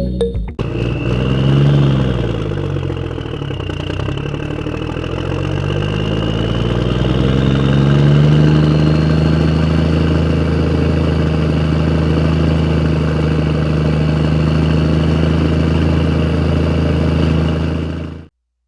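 Tractor engine sound effect: the engine runs with its pitch rising and falling over the first few seconds, then settles into a steady run before cutting off suddenly near the end.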